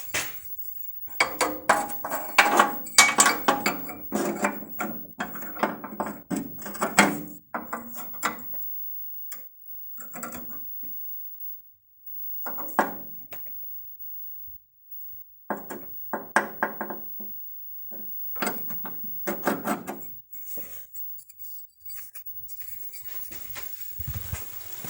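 Metal objects clinking and clattering in several bursts with pauses between, with short ringing tones after the knocks, like loose metal parts being handled and set down.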